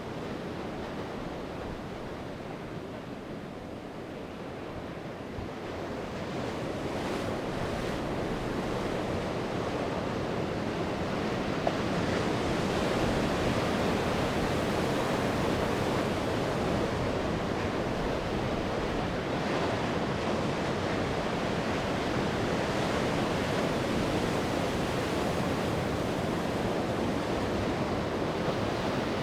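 Sea waves breaking and washing on the shore: a steady rushing that swells louder several seconds in and stays up.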